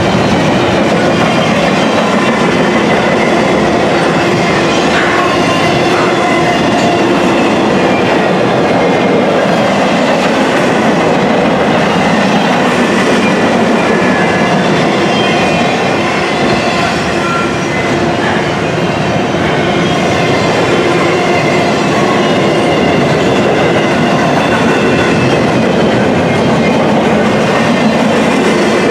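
Intermodal freight train cars rolling past at steady speed: steel wheels rumbling and clacking on the rails, with a few brief faint squeals.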